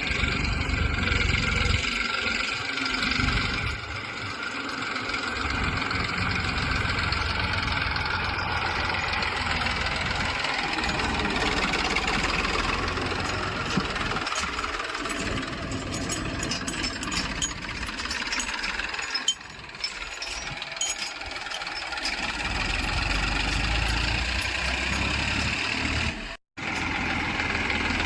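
Heavy diesel engine running, a steady low rumble that rises and falls a little, with the sound cutting out for a moment near the end.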